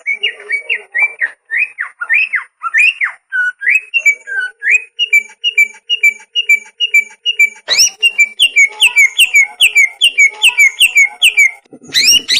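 Cucak ijo (green leafbird) singing a long run of loud whistled notes, each a quick slurred sweep in pitch. The notes come about two a second at first and speed up to about three a second partway through, with a brief pause near the end.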